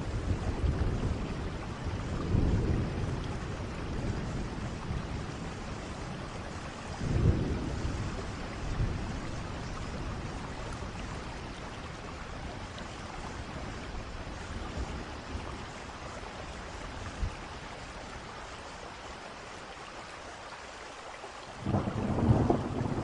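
Steady rain with thunder rumbling several times in the first few seconds. Near the end, after a quieter spell of rain, a louder roll of thunder comes in.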